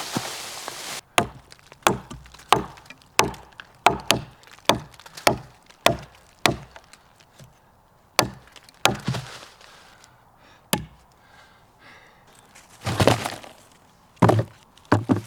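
Axe repeatedly striking wood: a quick run of sharp chops, about one and a half a second, then slower, more scattered blows, with a louder cluster near the end.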